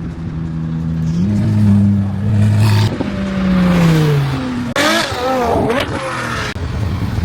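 A car engine revving: a steady note that climbs about a second in and slides down around four seconds, with a short, louder rev near five seconds.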